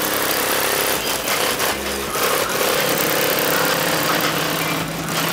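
A car engine running with a steady exhaust note, among general street noise.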